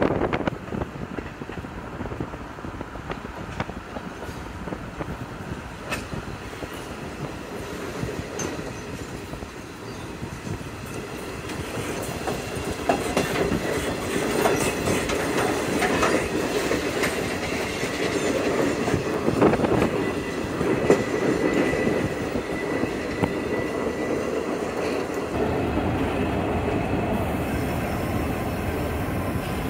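Passenger coaches of an excursion train rolling past close alongside, wheels clattering on the rails, heard from inside a car driving beside the train. The train sound grows louder about a third of the way in, and a thin high wheel squeal comes through briefly past the middle.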